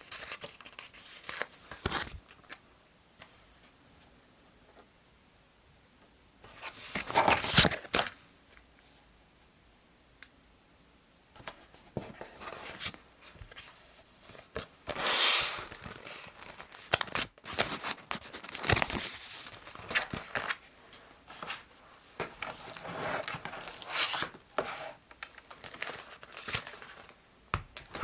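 Paper and sticker sheets being handled for diary decorating: irregular short bursts of tearing, peeling and crinkling with quiet gaps between, the loudest about seven and fifteen seconds in.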